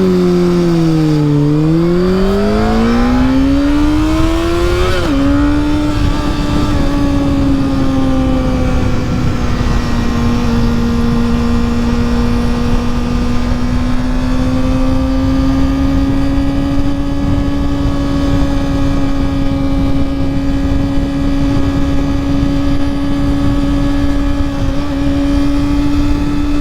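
Honda CBR600 sport bike's inline-four engine under way: the revs dip, then climb through a gear until a quick upshift about five seconds in drops the pitch, after which it holds a steady cruising note. A low rushing noise runs underneath.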